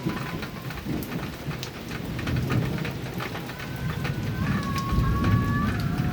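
Heavy rain drumming on a metal roof, with sharp scattered drop hits over a continuous low thunder rumble that swells about four to five seconds in. Faint thin whistling tones sound through the second half.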